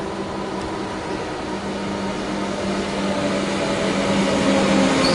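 Electric suburban train pulling into a station platform, a steady humming drone over a rushing hiss that grows steadily louder as it comes closer.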